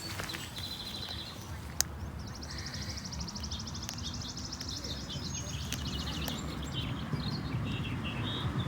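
A small bird singing a rapid, high trill for about four seconds, after a shorter trill near the start, over a steady low rumble. A single sharp click comes about two seconds in.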